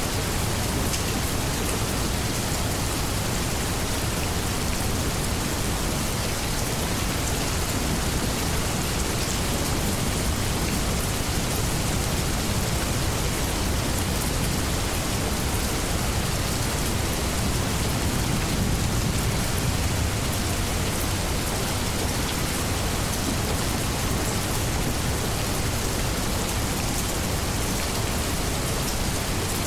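Steady heavy rain, a dense even hiss of drops with a low rumble underneath that swells slightly midway.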